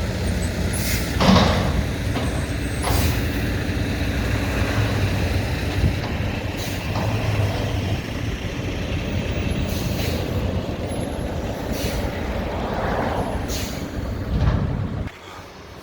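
Mack front-loader garbage truck with a McNeilus body, its diesel engine running with a steady low rumble, with a few short sharp noises such as air-brake hisses. The rumble drops away suddenly near the end.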